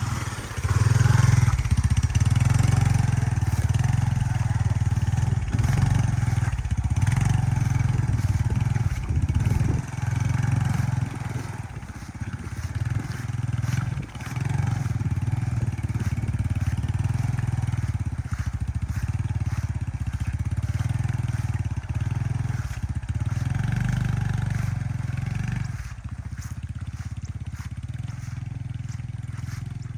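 Yamaha PG-1's small single-cylinder engine running under way, dipping briefly several times as the throttle eases and comes back. It drops quieter a few seconds before the end.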